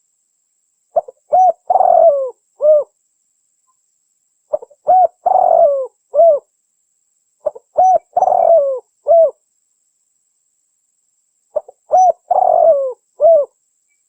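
Spotted dove (tekukur) cooing: four repeated call phrases about every three and a half seconds, each a couple of short coos, a longer drawn-out coo and a final short note. It is a dove call played as a lure to attract wild spotted doves.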